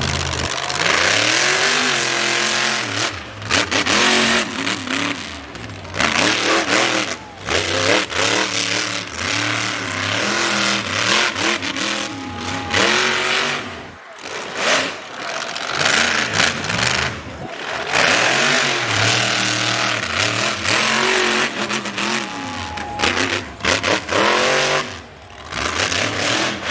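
Monster truck engine revving hard again and again, its pitch swinging up and down, with short let-offs about halfway through and near the end.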